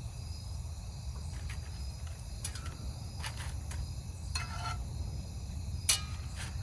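Crickets trilling steadily over a low background rumble, with a handful of short clinks and taps scattered through, the loudest near the end: a utensil against the pan as ground beef is spooned over the chips.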